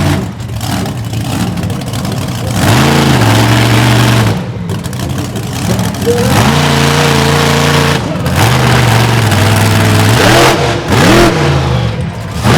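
Monster truck engine revving hard in repeated bursts: pitch climbs and holds for a second or two, drops back, climbs again, with two quick blips of the throttle near the end.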